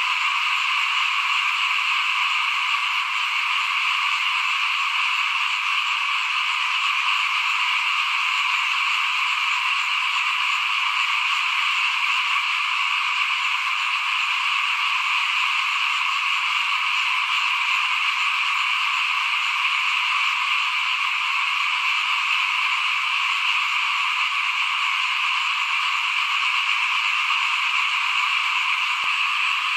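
A dense chorus of many small frogs calling together without a break, a steady wall of overlapping calls.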